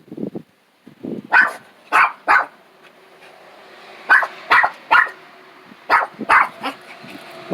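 Small dog, a chihuahua–pug mix, barking in quick runs of about three sharp barks, several runs in a row.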